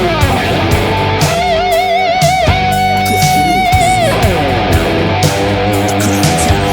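Hard rock band music led by an electric guitar: the lead guitar slides down into a long held note with wide vibrato, then slides down again about four seconds in, over drums and bass.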